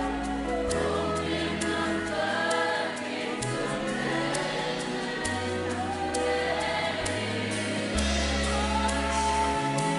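Live worship music: a band plays slow sustained chords, with bass notes that change every second or two, while voices sing drawn-out notes over it. Light cymbal ticks keep a steady pulse.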